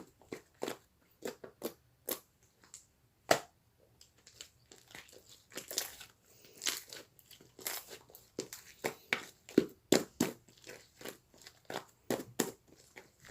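Slime with shaving foam mixed in being squeezed and kneaded by hand, giving irregular wet pops and clicks several times a second.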